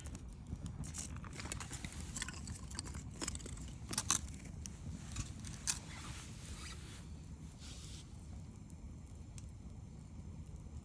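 Wood campfire crackling, with sharp pops and snaps over a steady low rumble. The snaps come thickest in the middle, with the loudest pops about four seconds in and again near six seconds, then thin out.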